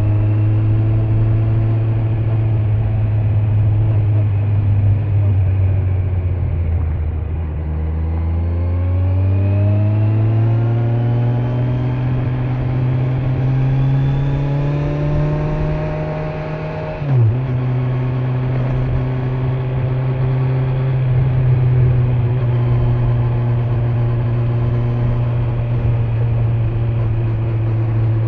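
Kawasaki Z900's inline-four engine with stock exhaust under way: the engine note eases down, then climbs steadily as the bike accelerates, drops sharply with a short click at a gear change about two-thirds of the way in, and then holds a steady cruising note. Wind and tyre noise run underneath.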